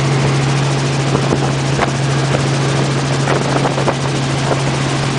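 Helicopter running: a steady, unbroken drone with a strong low hum under a dense rushing noise.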